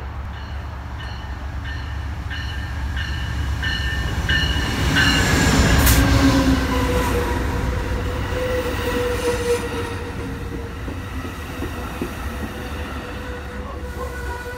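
Amtrak Pacific Surfliner train arriving. A bell rings about once every 0.7 s for the first five seconds. The train is loudest as the locomotive passes about six seconds in, and the bilevel cars then roll by with a steady, slightly falling squeal of braking wheels as the train slows.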